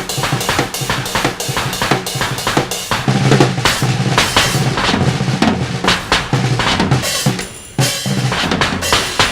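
A makeshift drum kit of drum parts and scrap metal is played in a fast, dense rhythm: bass-drum thuds under rapid strikes on drums and metal. The playing dips briefly about three-quarters of the way through, then picks up again.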